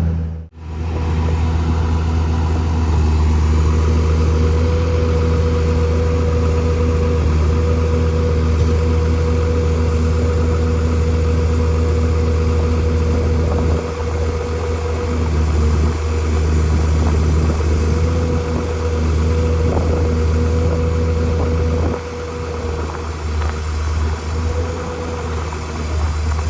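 Heavy construction machine's diesel engine running steadily, with a steady whine above it that breaks off now and then. The sound drops out briefly right at the start and dips in level about halfway through and again near the end.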